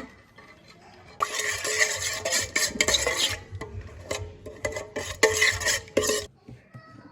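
A utensil stirring and scraping against a dish, with repeated ringing clinks. It starts about a second in and stops about six seconds in.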